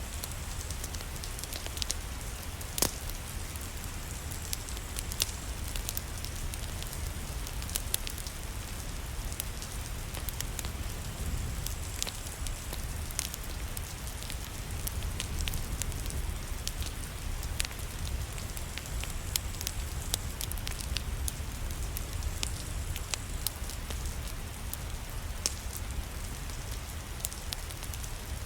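Steady rain with a wood fire crackling in a fireplace. A constant hiss over a low rumble is dotted with sharp pops and snaps every second or so, one louder pop about three seconds in.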